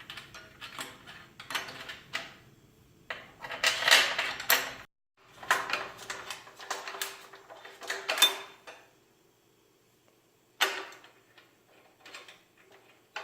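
Metal mounting brackets and bolt hardware knocking, clinking and scraping as they are handled and fastened to a lift table's steel platform, in a series of irregular knocks with a louder flurry about four seconds in.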